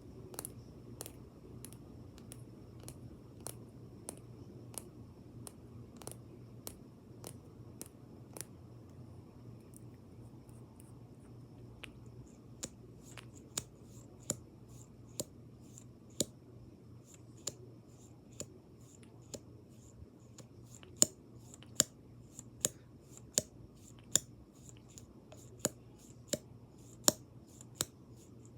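Irregular sharp taps and clicks on makeup products, about one to two a second, growing louder about halfway through, over a steady low electrical hum.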